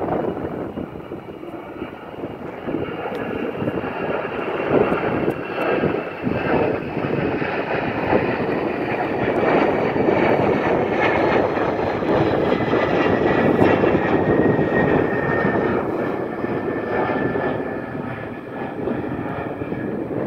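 Jet airliner engines at takeoff power on departure, a loud steady rush that builds over the first few seconds, with a high whine that slowly falls in pitch as the aircraft passes.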